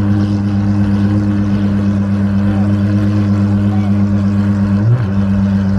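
An engine running at a steady speed, giving a constant low hum, with a brief rise in pitch about five seconds in.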